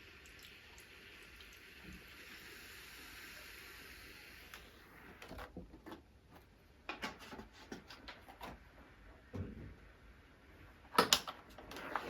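Household handling sounds: a steady hiss for the first few seconds, then a scatter of light clicks and knocks, with two sharp louder clicks near the end.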